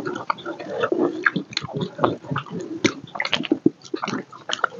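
Close-miked wet chewing and lip smacking of rice and chicken curry eaten by hand. A quick run of short clicky mouth sounds mixes with fingers squishing rice against a steel plate.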